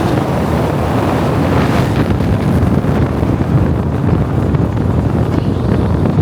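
Wind buffeting the microphone over a steady low rumble from a moving car.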